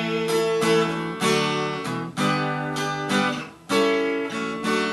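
Acoustic guitar strumming chords, with a brief drop about three and a half seconds in before a fresh strum.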